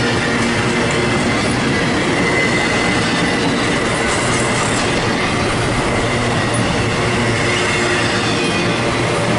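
Train rolling past on the tracks: a loud, steady rumble of wheels on rail, with a thin, high wheel squeal running over it.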